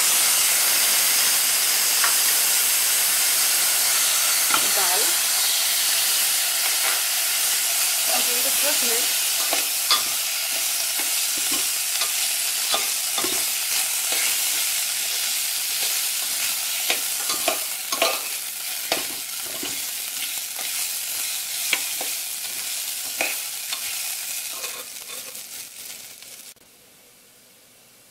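Rice and dal frying in hot oil in a pressure cooker: a sizzle that jumps up as the rice goes in and slowly dies down, with a metal ladle scraping and clicking against the pot as it is stirred. The sizzle cuts off suddenly near the end.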